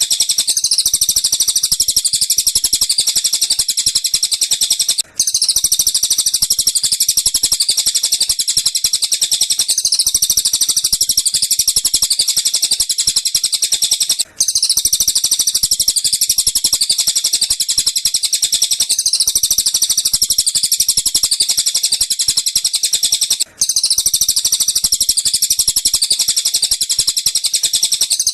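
Looped recording of tengkek buto and cililin calls, used as a master track for lovebirds: dense, rapid, high chattering repeated without pause. It breaks off briefly three times, about every nine seconds, where the loop restarts.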